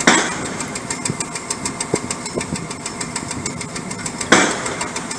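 Caterpillar C9 diesel engine idling with a fast, even ticking clatter. Two short hissing bursts cut in, one at the start and one about four seconds in.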